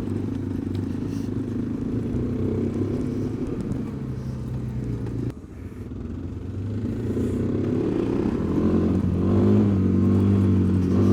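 Kawasaki KLX250 dual-sport motorcycle engine running under throttle off-road. It drops off abruptly about five seconds in, then comes back and builds, its pitch rising through the second half.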